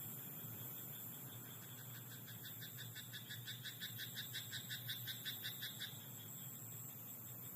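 A frog croaking in a rapid run of short, evenly spaced croaks, about four a second, building up in loudness and stopping abruptly about six seconds in, over a steady high-pitched insect chorus.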